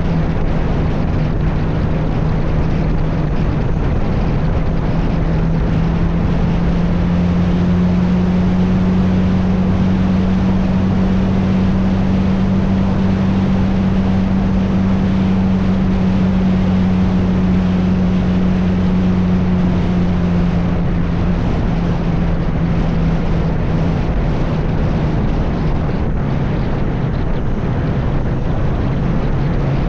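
A vehicle engine running steadily with a constant low hum that rises slightly in pitch and falls back again near the end, under heavy wind and road noise.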